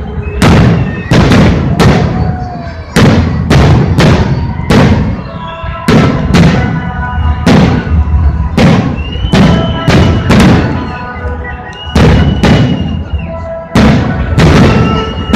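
Fireworks display: a continuous volley of loud bangs, more than one a second, each leaving a short rumbling tail, with steady tones sounding between the bursts.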